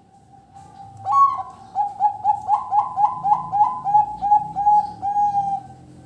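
Zebra dove (perkutut) singing: a low coo, then a rapid run of about a dozen short coos, roughly three a second, from about a second in until near the end.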